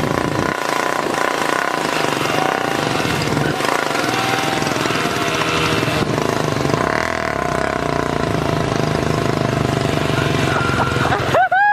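Motorcycle engines running hard under load in a motorcycle tug-of-war, a Royal Enfield Bullet against three other bikes. A brief high, steady tone cuts in near the end.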